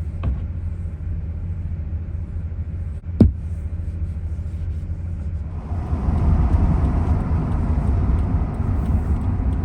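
A car or truck driving, heard from inside: a steady low rumble of engine and road noise. There is one sharp click about three seconds in, and the noise grows louder and brighter from about halfway through.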